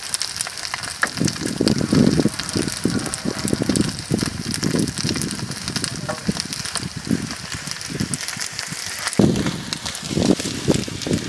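Chive rice cakes frying in oil on a large flat pan, a steady sizzle with fine crackling.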